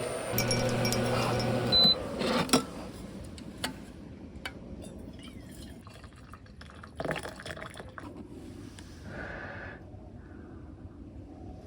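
Liquid being poured into a vessel, its pitch rising as the vessel fills, stopping about two seconds in with a short high beep. Light clicks and knocks of handling follow.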